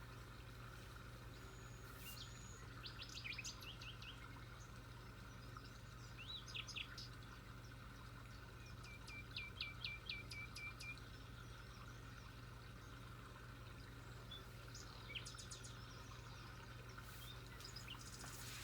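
Birds chirping in scattered short phrases, including one run of about seven quick, evenly spaced notes, over a faint steady low hum.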